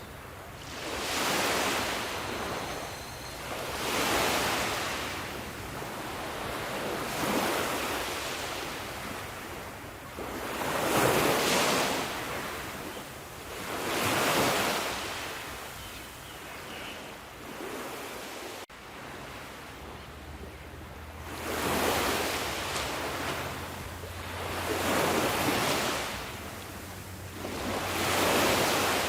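Sea waves washing onto the shore, each one swelling and fading away, about every three seconds. There is a brief break in the sound about two-thirds of the way in.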